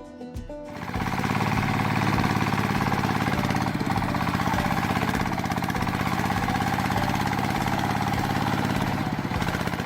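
A small engine running steadily with a fast, even pulse. It starts about a second in and stops just before the end.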